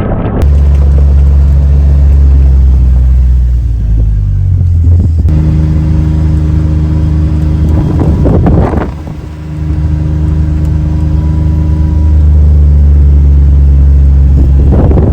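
Vehicle engine running steadily with a low drone. Its note drops about four seconds in, rises again a second later, and dips briefly near the middle.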